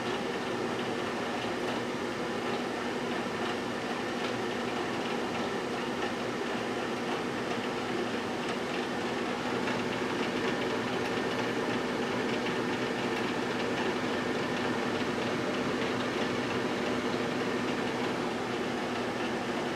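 GE Dual Wave microwave oven running with an apple inside: a steady electrical hum from the magnetron and cooling fan.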